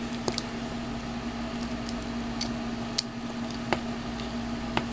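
A few light clicks and taps as the joints of an S.H. Figuarts War Machine action figure are moved by hand, over a steady electrical hum.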